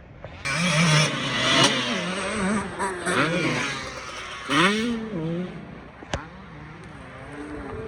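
Several off-road racing engines revving up and down as they pass, loud from about half a second in, with a sharp click about six seconds in.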